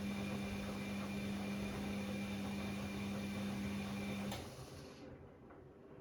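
Bosch Classixx 6 washing machine running in the heating stage of a cottons 90 wash: a steady hum and hiss that stops with a click about four seconds in, leaving the machine much quieter.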